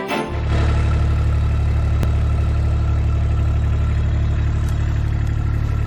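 Side-by-side utility vehicle's engine running steadily at a low, even drone, starting about a third of a second in.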